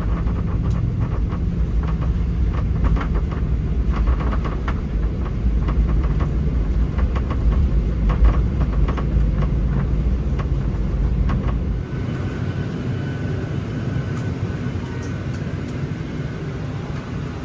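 Boeing 737-800 cabin sound on the runway: a heavy wheel-and-engine rumble with cabin fittings rattling. About twelve seconds in, the deep rumble drops away sharply, leaving a steadier engine whine.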